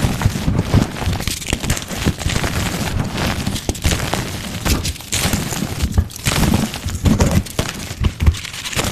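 Gym chalk being crushed and broken up, close to the microphone: a steady run of crunching and crackling with sharper snaps scattered through.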